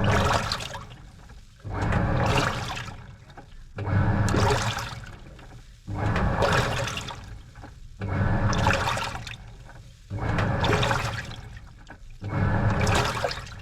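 Washing machine agitating a load during the wash: the motor hums and the drum churns water and clothes in a surge about every two seconds, each one starting suddenly and fading before the next.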